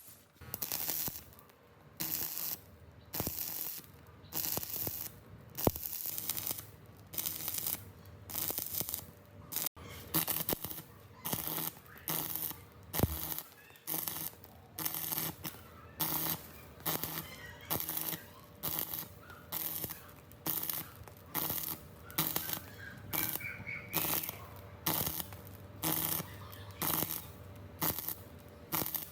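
Rhythmic back-and-forth hand rubbing strokes, about one and a half a second, like sanding or scrubbing a surface by hand, with a couple of sharp clicks.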